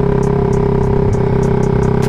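Suzuki Raider 150 Fi single-cylinder engine running steadily at low revs through an open aftermarket CHA exhaust pipe, with no popping, under background music.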